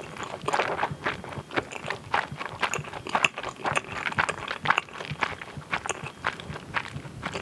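Close-miked chewing of a mouthful of Korean fish cake (eomuk): a quick, irregular run of soft mouth clicks and smacks.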